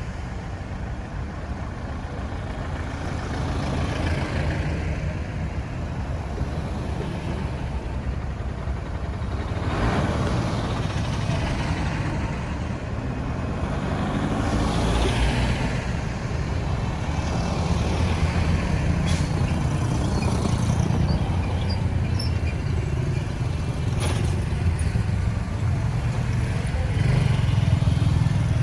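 Road traffic: a steady low rumble of engines and tyres, with several vehicles passing close by, one after another.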